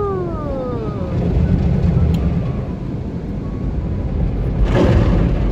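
Automated tunnel car wash heard from inside the car: a steady low rumble of the wash equipment, with a short rushing burst of spray or brushes hitting the car near the end.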